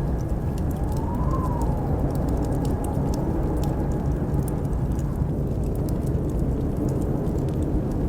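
Blizzard wind, a steady low rumble with a howl that rises and falls in pitch about a second in, over the sparse crackle of a wood fire in a fireplace.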